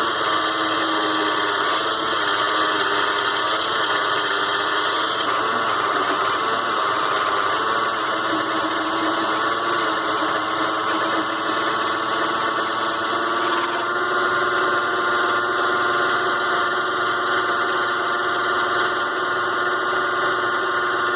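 A 6-in-1 mini lathe's small DC motor running with a steady whine while a light turning cut is taken on aluminium stock. The tone shifts slightly about five seconds in and again about fourteen seconds in.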